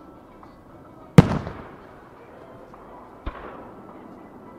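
Aerial firework shells: a sharp, loud bang about a second in that trails off in a rumbling echo, then a second, weaker bang about two seconds later.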